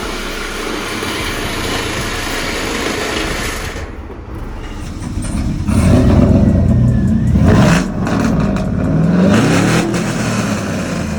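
Dodge Charger's 3.6-litre V6 engine revved several times, its pitch climbing and dropping, after a stretch of steady noise that breaks off about four seconds in.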